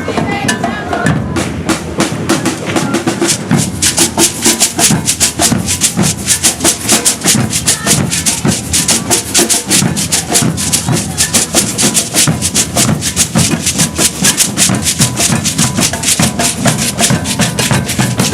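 Maracatu de baque virado percussion group playing a fast, dense rhythm of drums with shakers and a clanking bell.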